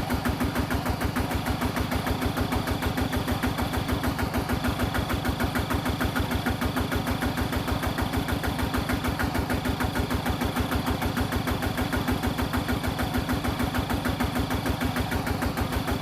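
Small diesel engine of a homemade mini tractor running steadily at idle, with a fast, even chugging pulse.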